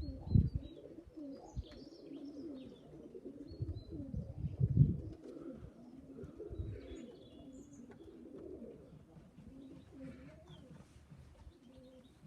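Young homing pigeons cooing over and over at the loft, with faint high chirps above and a few louder low bumps, the loudest about four to five seconds in.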